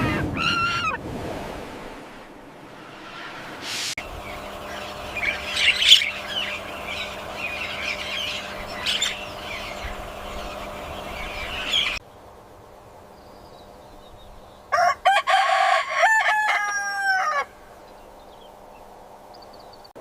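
Farmyard chickens: short chirps and clucks, then a rooster crowing once, a call of about three seconds, past the middle.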